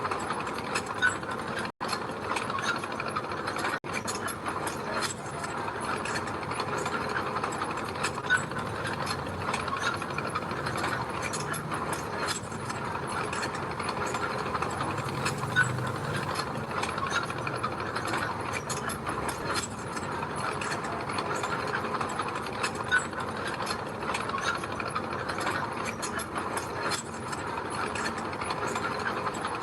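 Bulldozer working, a continuous metallic clatter and rattle of its steel crawler tracks over a steady engine. Two very brief dropouts come about two and four seconds in.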